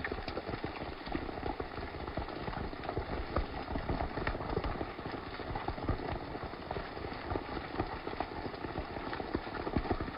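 Hail and heavy rain falling on a dry grass (thatch-like) roof covering: a dense, irregular patter of many small hits over a steady rush of rain.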